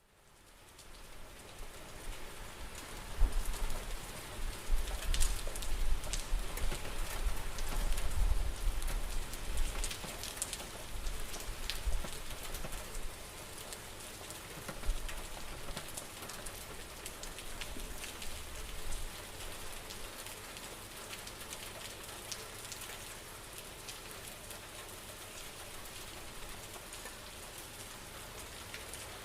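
Steady rain falling, an even hiss full of small drop ticks, fading in from near silence over the first couple of seconds. A low rumble sits under the rain in the first half, then the rain carries on alone at a steady level.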